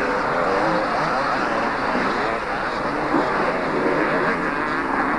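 Several two-stroke motocross bikes racing, their engines revving up and down and overlapping one another.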